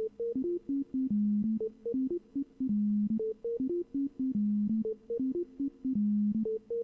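Waldorf Iridium synthesizer's step sequencer playing a looping melodic pattern on a plain init patch. Short, clean notes are separated by gaps, and each pass ends on a longer held low note, so the phrase repeats about every one and a half seconds.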